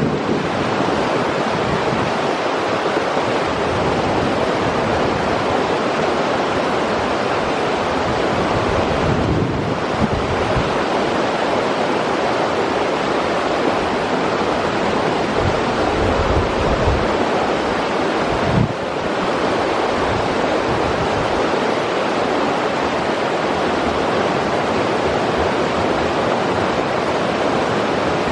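River water rushing steadily, with wind buffeting the microphone now and then as low rumbles.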